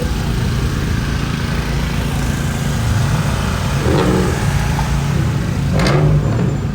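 Car engines running and revving with a deep, steady exhaust note, the pitch rising and falling. Two brief sharp noises cut through, about four and six seconds in.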